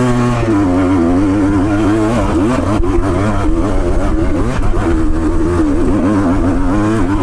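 Off-road motorcycle engine working hard up a steep hill, its pitch rising and falling over and over as the throttle is opened and eased.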